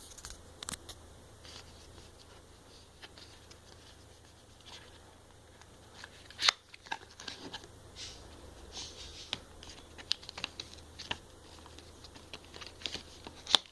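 Cardboard and paper packaging of an Apple Watch being handled and pulled open: scattered scratches, scrapes and light taps, with one sharp knock about six and a half seconds in and another near the end.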